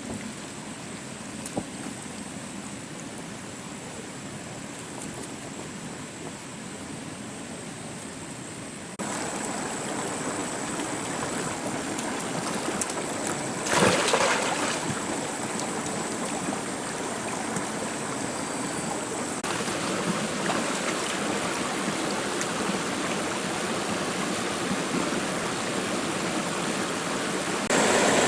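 Stream water running, a steady rushing sound that jumps louder abruptly about a third of the way in and again near the end, with a brief louder burst about halfway through.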